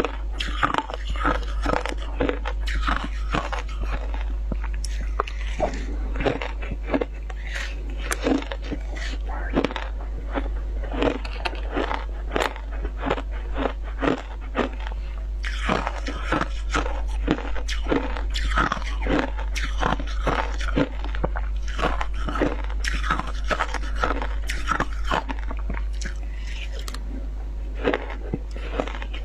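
Close-up crunching and chewing of shaved ice, with many crisp, irregular crunches in quick succession.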